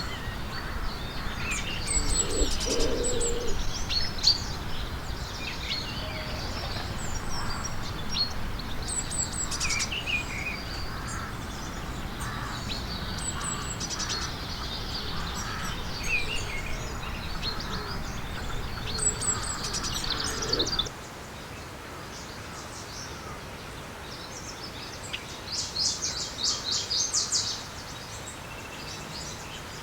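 Several small birds chirping and twittering, with many short high chirps overlapping. A low background rumble stops suddenly about two-thirds of the way through, and a fast run of chirps follows near the end.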